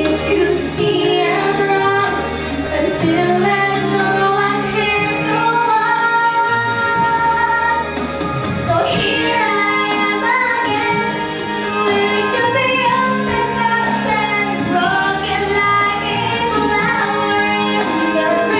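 Female vocal singing a melody over an instrumental accompaniment, with sustained bass and chord notes held underneath the voice.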